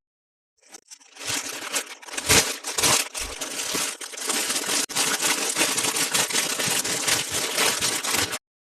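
Plastic toy packaging crinkling and crackling as it is handled and opened, with many small clicks. It cuts off abruptly near the end.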